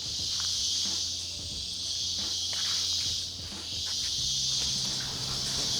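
Steady high-pitched drone of a rainforest insect chorus, with faint footsteps now and then.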